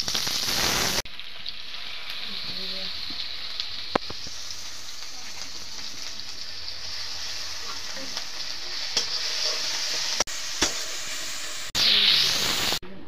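Sliced onions sizzling in hot oil in an iron karahi, a steady frying hiss. It swells louder for about a second at the start and again near the end, with a few sharp clicks of metal in between.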